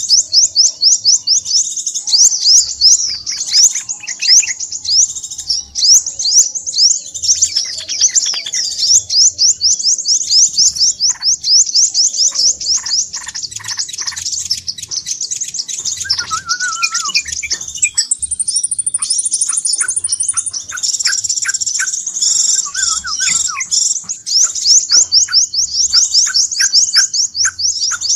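Crimson sunbird (sepah raja) calling in a fast, unbroken stream of high, sharp chirps: the busy, agitated chatter used as a trapping lure. A brief higher trill comes in about two-thirds of the way through.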